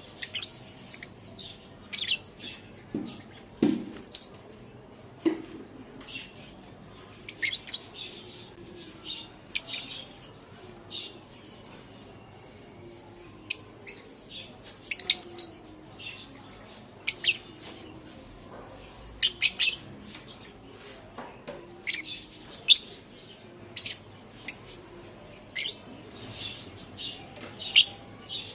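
Pet lovebirds chirping: short, shrill calls at irregular intervals, some in quick runs of several notes.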